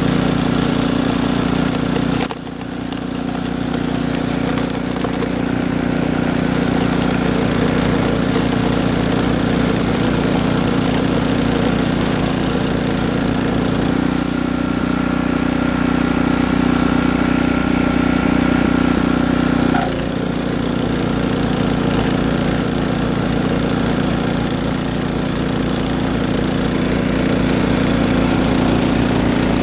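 Snowblower engine running steadily while clearing snow. Its note dips briefly about two seconds in, shifts for several seconds in the middle, then settles back.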